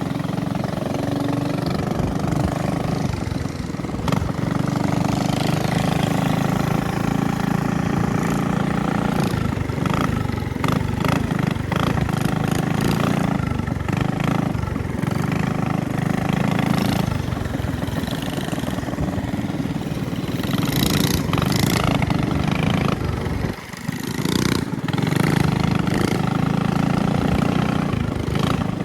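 Minibike engine running steadily during a ride. It eases off briefly about three-quarters of the way through, then picks back up.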